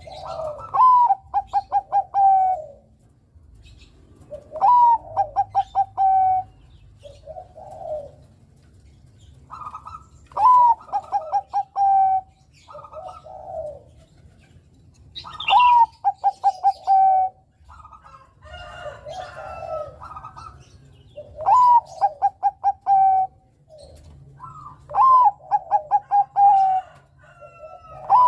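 Zebra dove of the Bangkok perkutut strain singing its cooing song: about six phrases roughly five seconds apart, each a rising note running into a quick string of short notes and ending on a held coo. Softer, lower coos fill the gaps between phrases.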